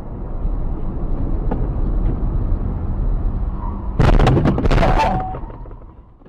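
Steady low rumble of a car driving, then about four seconds in a loud crash lasting about a second, with a second hit just before five seconds, before the sound fades out.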